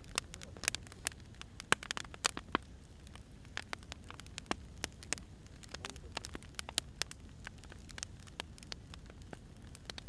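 Wood fire burning, crackling with irregular sharp pops and snaps over a low steady rumble.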